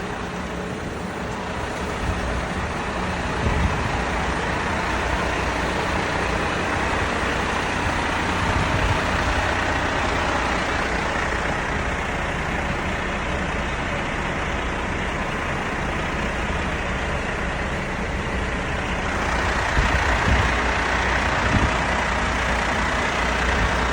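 Dump truck engine running steadily with a low rumble; a harsher, higher noise joins about 19 seconds in.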